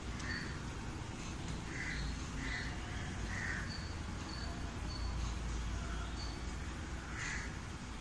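Faint bird calls: several short calls spaced out, a cluster around the middle of the first half and one more near the end, with fainter high chirps between them, over a low steady hum.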